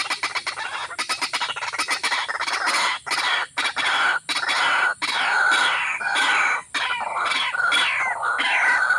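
Birds calling: a fast chattering run of short notes at first, then short calls that slide downward in pitch, repeated about twice a second.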